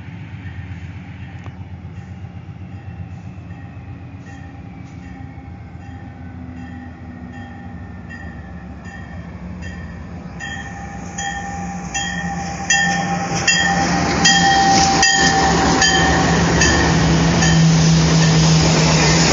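Freight train's diesel locomotives approaching and then passing close by, the engines growing much louder about two-thirds of the way through. A bell rings steadily throughout, about three strokes every two seconds.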